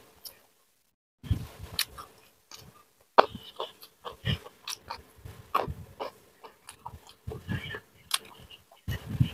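Close-miked eating: a person chewing food, with irregular crunches and bites that start about a second in and keep coming unevenly.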